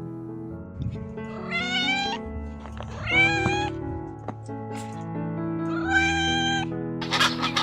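A domestic cat meowing three times, each meow under a second long and sliding upward in pitch, over steady background music.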